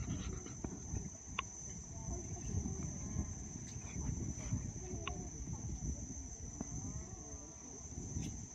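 Steady high-pitched insect chorus, with low rustling and crackling beneath it and a few faint clicks.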